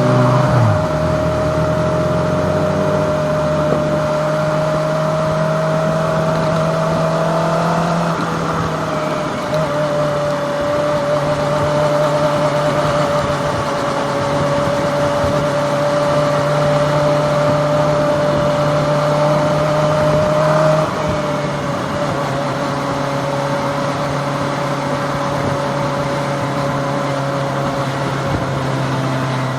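Kawasaki ZX-25R's 250cc inline-four engine running at a steady cruise, its pitch rising slightly near the start, then dropping about a quarter of the way in and again about two-thirds of the way in.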